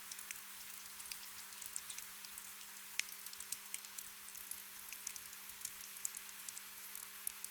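Soft rain ambience: a steady patter with many individual drops ticking irregularly, over a faint steady low hum.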